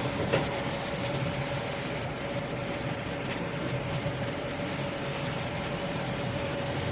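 Commercial dishwashing machine running: a steady rush of spraying water over a motor hum, with a steady whine and one click about half a second in. It stops suddenly at the end.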